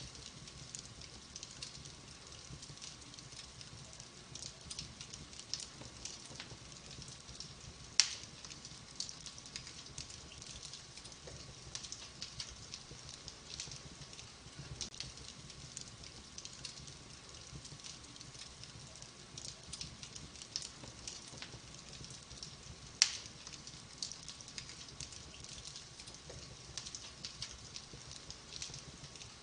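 Wood fire crackling in a fireplace: a continuous patter of small crackles, with two sharp, loud pops, one about a quarter of the way in and another about three-quarters through.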